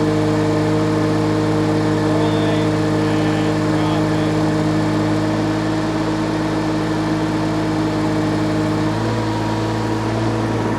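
Stand-on skid steer's small diesel engine running steadily at raised speed, then dropping back to a lower speed about nine seconds in.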